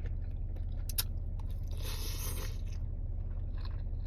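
Close-up biting and chewing of crunchy food: a sharp click about a second in and a longer crunch about two seconds in, over a steady low hum.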